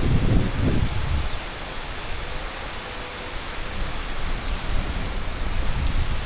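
Heavy monsoon rain falling steadily as a dense, even hiss, with low gusts of wind rumbling on the microphone, strongest in about the first second.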